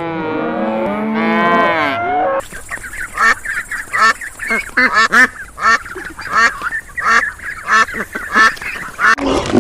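A cow mooing in long calls that bend in pitch, cut off about two seconds in. Then a flock of waterfowl calling in short, repeated calls, about two a second.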